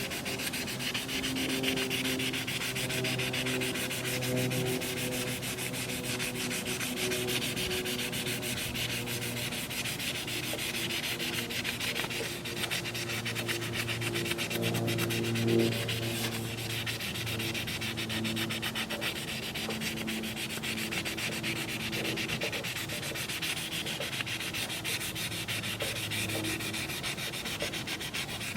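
Micro-mesh abrasive pad rubbed by hand back and forth over an Oster 76 clipper's housing, a continuous scratchy sanding sound as the pad polishes scratches out of the finish.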